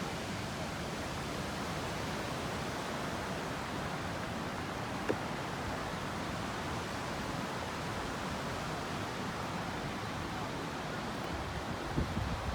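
Steady rushing of water pouring over a small river waterfall. A single faint click comes about five seconds in, and a few soft low thumps come near the end.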